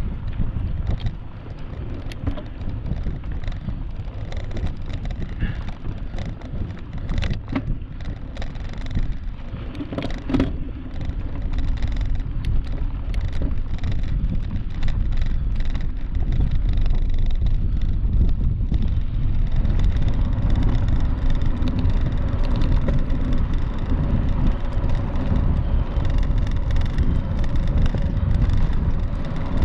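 Mountain bike riding downhill on a dirt trail: a steady rushing rumble with scattered clicks and rattles, growing louder about halfway through.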